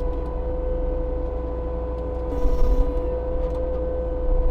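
Compact track loader's diesel engine running hard with its Fecon forestry mulching head spinning, a steady whine over a low rumble. A brief rush of noise comes about two and a half seconds in.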